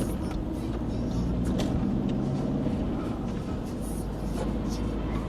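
Car engine and road noise, heard steadily, with an engine note showing faintly about a second in and a few light knocks.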